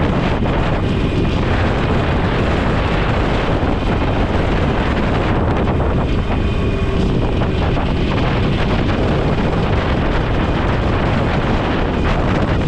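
Motorcycle riding at speed: steady wind rush on the microphone over the engine and road noise.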